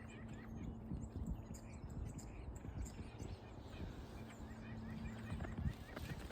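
Small birds chirping and twittering, many short high calls overlapping throughout, over a low rumble with a faint steady hum.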